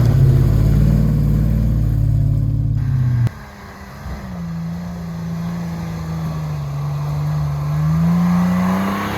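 Off-road 4x4's engine running under load on a trail, its pitch wavering. About three seconds in it cuts off abruptly, and an engine note comes back that sags slowly in pitch and then rises again near the end.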